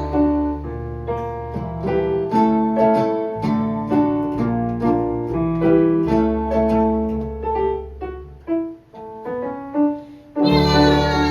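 Piano playing an instrumental passage of a ballad, single notes and chords ringing over a steady bass. It thins out to a few sparse notes, then a voice and fuller playing come back in near the end.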